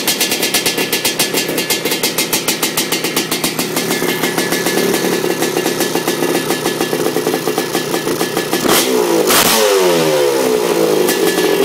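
Freshly built ESR 310 two-stroke engine in a Honda 250R trike running on its first heat cycle. It idles with a pulsing beat, picks up to a faster, steadier run about four seconds in, and is revved sharply near nine seconds, its pitch swinging up.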